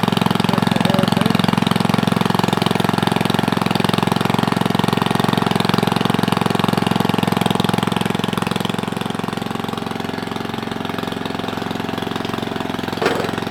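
Small Briggs & Stratton single-cylinder engine running steadily with no muffler, its exhaust coming straight out of a short pipe elbow. It settles a little lower about two-thirds of the way through.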